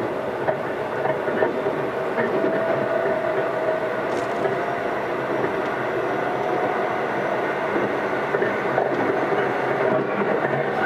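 Keisei AE100 series electric train heard from inside a passenger car while running: a steady rumble of wheels on rail with a whine that rises slowly in pitch. The weak air-conditioning blower runs underneath.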